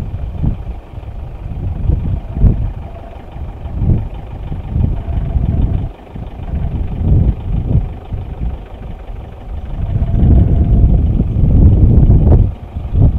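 Low, uneven rumble of an idling vehicle engine, mixed with wind buffeting the microphone in gusts.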